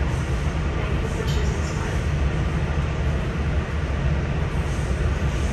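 Steady running noise heard from inside a Nippon Sharyo diesel multiple unit railcar under way: a low, even drone of the engine and wheels on rail.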